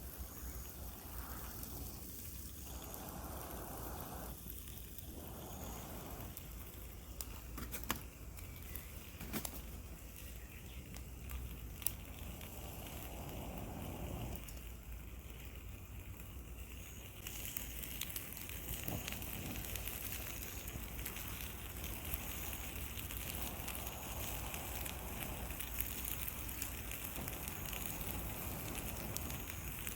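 Campfire crackling, with scattered sharp pops over a steady hiss and low rumble.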